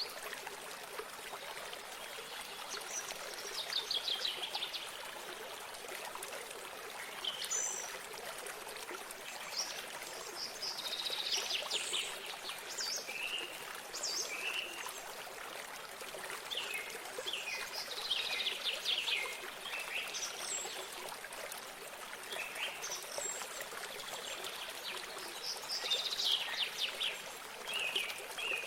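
A small stream of water running steadily, with songbirds singing over it: fast trilled phrases of high notes come back about every seven or eight seconds, with scattered single chirps between them.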